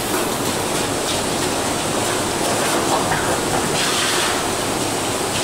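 Steady rush of falling water from a partly frozen waterfall that is starting to melt, with a short brighter hiss about four seconds in.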